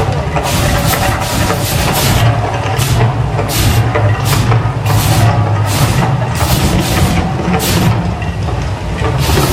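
Volcano show eruption effects: a loud, deep, continuous rumble with a rapid run of short hissing bursts over it.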